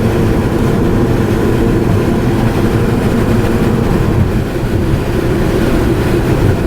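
Steady road and engine noise of a car driving, heard from inside the cabin: an even, constant low drone with no sudden events.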